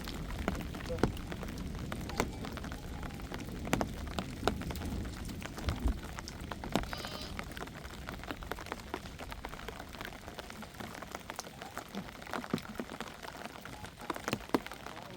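Rain falling, with irregular sharp taps of drops striking a surface close by over a steady hiss. A low wind rumble underneath fades over the first few seconds.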